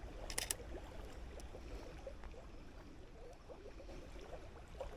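A single camera shutter click, a quick double snap, about half a second in, over faint scattered rustling and a low steady rumble.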